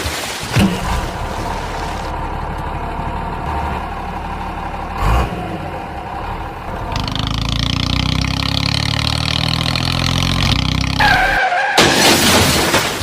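Tractor engine running steadily, its note growing fuller and stronger about seven seconds in. A sudden hissing burst with a falling whistle comes near the end.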